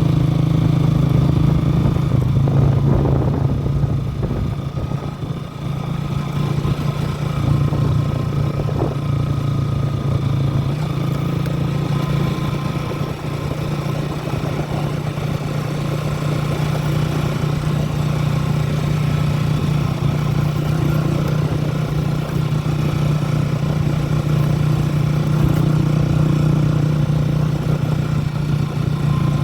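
An engine running with a steady, even drone that holds one pitch throughout.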